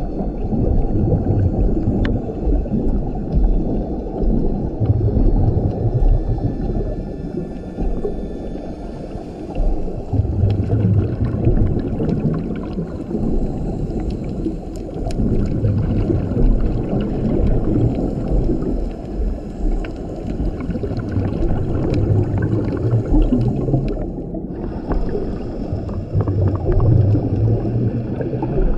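A scuba diver breathing through a regulator underwater: a steady rumble of bubbles, with stronger surges of exhaled bubbles every few seconds.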